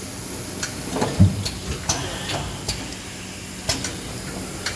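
Automatic shrink-wrapping machine running: a steady hiss from its heat tunnel, with scattered mechanical clicks and a low thump about a second in.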